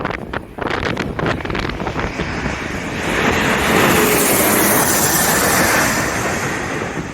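Jet airliner passing low overhead: a loud rushing jet noise with a faint whine that sweeps slowly down in pitch, building about three seconds in and easing near the end. Strong gusty wind buffets the microphone.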